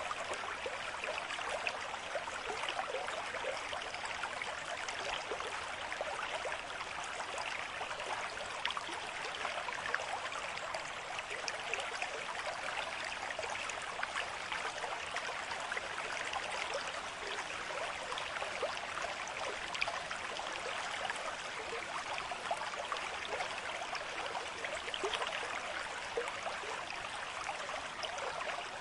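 Running water babbling steadily, an even wash of splashing with no pauses or changes.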